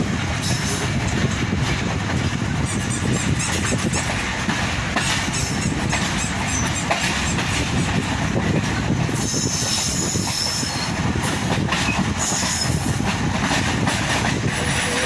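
45 Up Pakistan Express passenger train running on the track: steady wheel-and-rail rumble with clicks over the rail joints, and a thin high wheel squeal that comes and goes in the second half.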